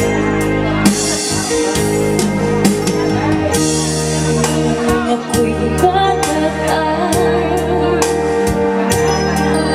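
One-man-band music played through an amplified PA: electronic keyboard with held bass and organ-like chords over a programmed drum beat, with a singing voice.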